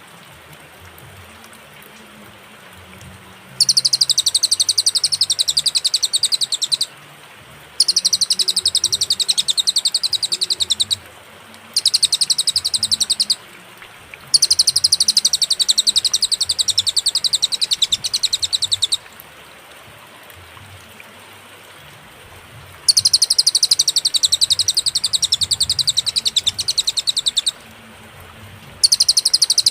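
Cililin songbird singing very rapid, high-pitched trilled phrases of a few seconds each, separated by clear pauses.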